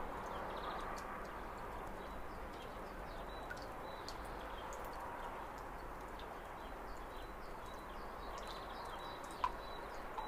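Outdoor ambience: a steady noise bed with faint, scattered bird chirps and one short click near the end.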